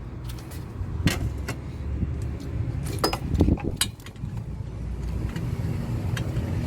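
Scattered clicks and metallic knocks of hand tools and carburetor parts being handled as a carburetor is worked loose and pulled off a Banshee 350, over a steady low rumble.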